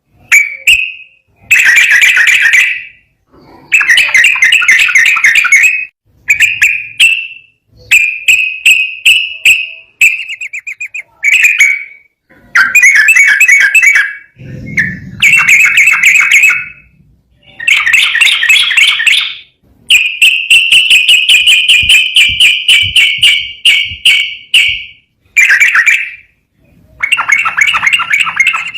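Sooty-headed bulbul (trucukan) singing loudly and continuously: fast chattering phrases a second or two long, separated by brief gaps, with one longer unbroken run of about five seconds past the middle.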